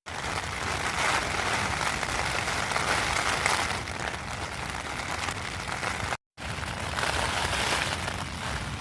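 Heavy rain drumming steadily on the tent fabric, a dense hiss with a low rumble beneath, cut off by a brief silent gap about six seconds in before it resumes.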